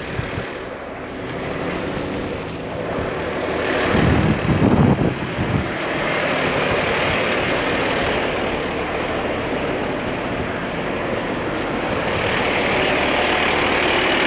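Steady running of a vehicle engine, a dense rumble that swells briefly about four seconds in and grows a little louder through the second half.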